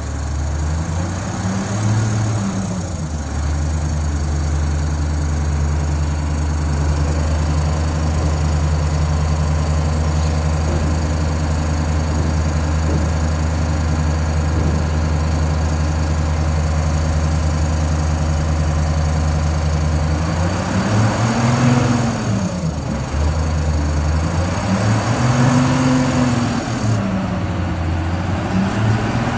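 Engine idling steadily, revved up and back down briefly about two seconds in and then several times near the end.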